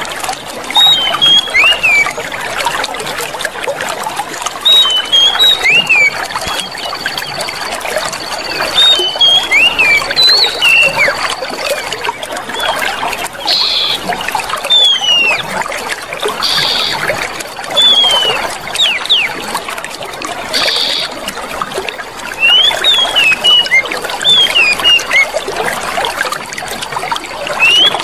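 Clear running water trickling and splashing steadily, with small birds chirping in short clusters of quick rising and falling notes every few seconds. A thin, high, steady whine sounds on and off above them.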